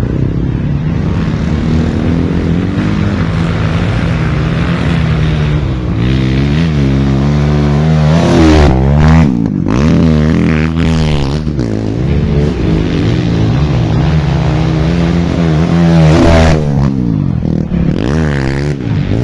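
Off-road dirt bike engine running under load and being revved hard over and over, its pitch swinging up and down repeatedly around the middle and again near the end.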